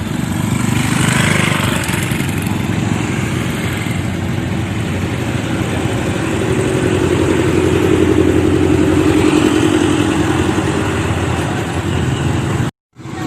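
Excavator's diesel engine running steadily, growing stronger and more pitched for a few seconds in the middle. The sound cuts out completely for a moment near the end.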